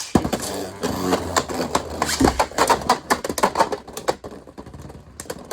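Beyblade battle: a 3D-printed Agèma Ares top and a lime green Beyblade X Shark Edge launched into a plastic stadium, a sharp launch knock at the start and then rapid, hard plastic clicks and knocks as the spinning tops clash over and over.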